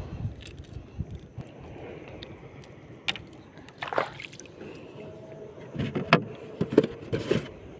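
Scattered knocks and clicks of handling on a small boat, with a few louder knocks about three and four seconds in.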